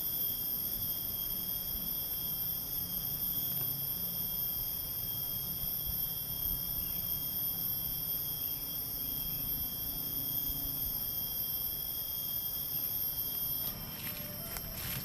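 A steady chorus of forest insects, several high-pitched trilling tones held without a break; near the end the chorus shifts and a few faint clicks sound.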